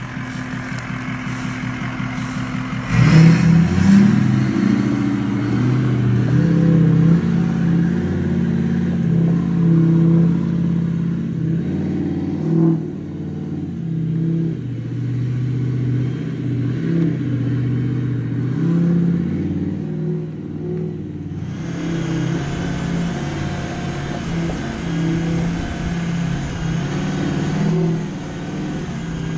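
Ford F-250's 6.0 L Power Stroke V8 turbodiesel running steadily, then pulling under throttle from about three seconds in as the truck climbs a steep dirt trail.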